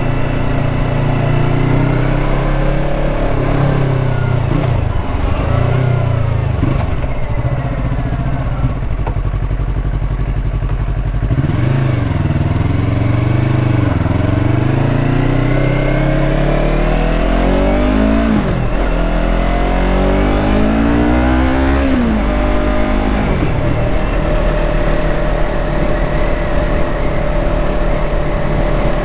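Yamaha R3's parallel-twin engine running under way, its revs rising and falling several times, then holding a steady note near the end.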